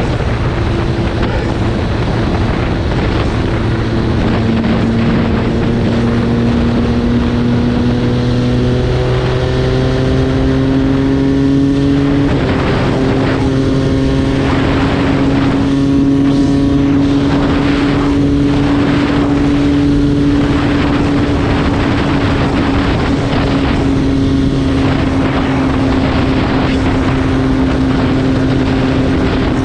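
MV Agusta F3 675's three-cylinder engine running on the move, its pitch climbing in a few steps over the first dozen seconds and then holding steady, under heavy wind noise.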